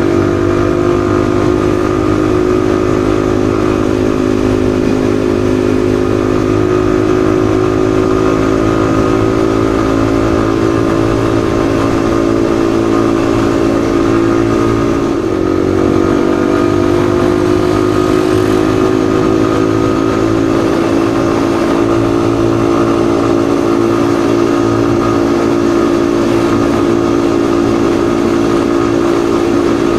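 Yamaha XSR155's single-cylinder 155 cc engine running steadily under way. About halfway through the revs dip briefly, then the pitch climbs slowly and holds steady again.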